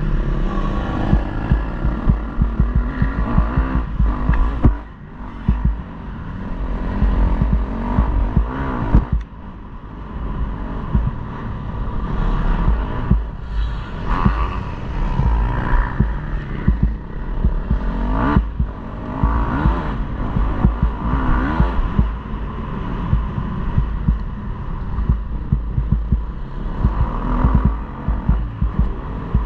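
KTM 250 motocross bike's engine revving up and down as it is ridden round the track, its pitch climbing repeatedly and dropping off, with a heavy low rumbling buffeting underneath. The loudness dips briefly twice in the first ten seconds as the throttle is shut.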